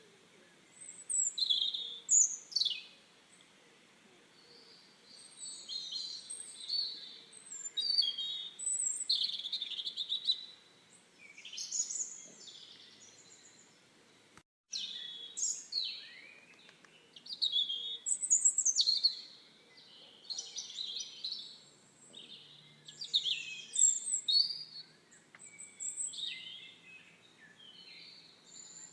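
Birdsong: several birds chirping and whistling in quick, varied phrases, with a momentary cut-out about halfway through.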